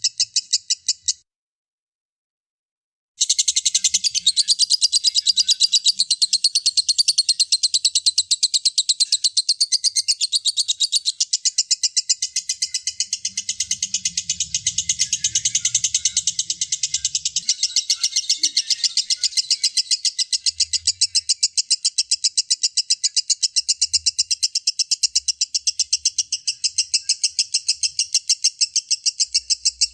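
Lovebird ngekek: a long, unbroken, high-pitched chattering trill made of fast, even pulses. It cuts out completely for about two seconds near the start, then resumes.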